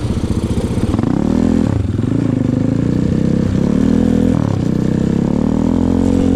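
Off-road vehicle engine accelerating, its pitch climbing and dropping back at three gear changes.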